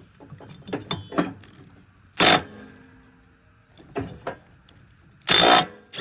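Impact wrench hammering in two short bursts, the second longer, loosening the nut on the riding mower's deck spindle, with small clicks of tool handling between them.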